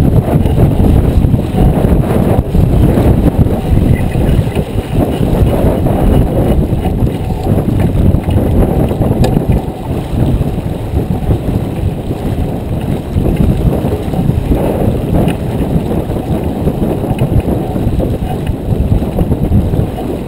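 Strong wind buffeting the microphone on board a J24 sailboat under sail: a loud, low rumbling rush that rises and falls in gusts.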